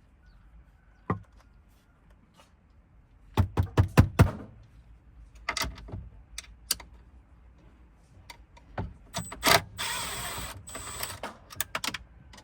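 Irregular clicks and small metallic knocks of hand-tool work on screws and fittings. There is a quick run of knocks about three and a half seconds in, and a short scraping rustle near ten seconds.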